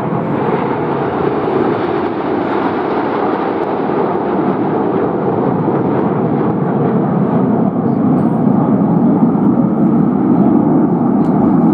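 A display aircraft flying by: steady engine noise that grows louder towards the end.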